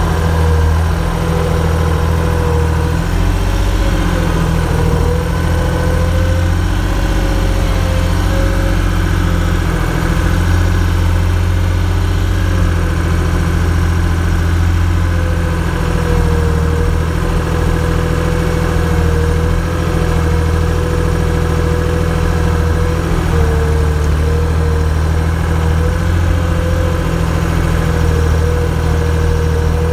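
A large engine idling steadily, with a faint wavering whine above the low running note.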